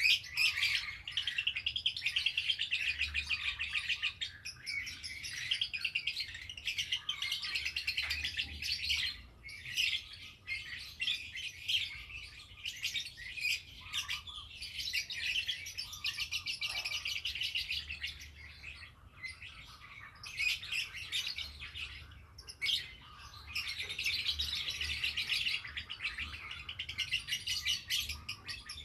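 Domestic canary singing at length: long runs of rapid, high trills and rolls, broken every few seconds by brief pauses.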